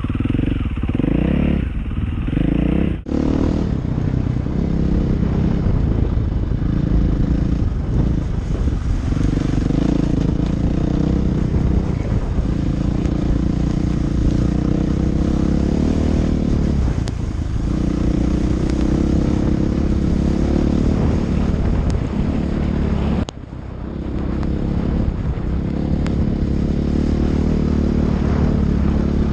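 Dirt bike engine running while being ridden, its pitch rising and falling with the throttle and gear changes, over a steady rush of wind noise on the microphone. The sound breaks off abruptly twice, once about three seconds in and again about three-quarters of the way through.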